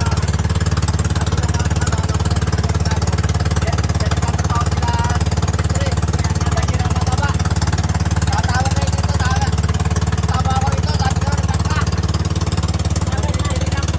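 Small boat engine running steadily at a constant speed, with a fast even chugging pulse. Faint voices underneath.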